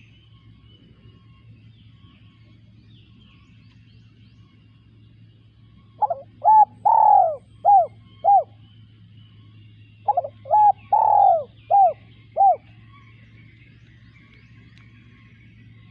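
Spotted dove cooing: two phrases of about five notes each, the middle note longer and louder, about four seconds apart. Faint chirping of other birds and a steady low hum lie underneath.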